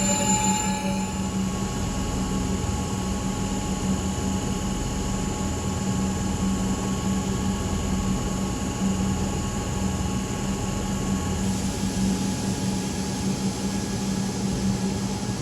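Passenger train running steadily at the station: a constant low hum with fainter high whines, one of which stops about eleven and a half seconds in.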